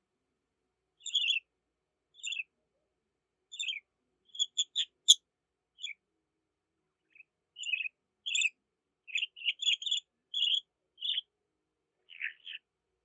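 Budgerigars chirping: short, scattered chirps with gaps of silence between them, coming faster and closer together in the second half.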